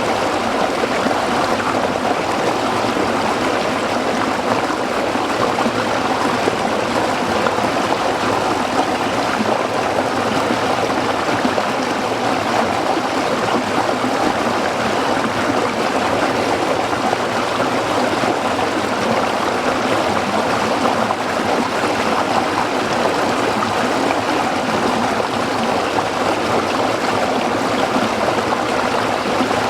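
A small stream flowing and splashing over rocks, a steady rushing and gurgling with no change.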